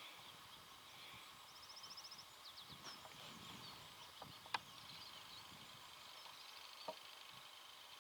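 Quiet outdoor ambience: faint wild birdsong with high chirps and a short trill, a soft rustle, and two sharp clicks, the louder a little past halfway.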